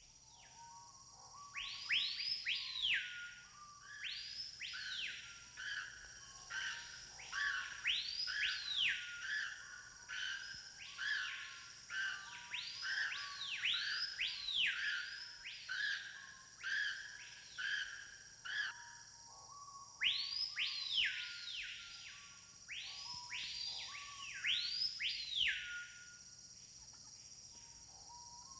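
Loud whistled bird calls, each swooping sharply up and then gliding down, repeated in fast runs of about two a second with two short pauses, over a steady high insect drone.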